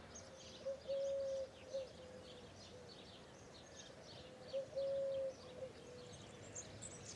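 A dove cooing twice in the same phrase, a short note, a long held one and short trailing notes, about four seconds apart, over faint chirping of small birds.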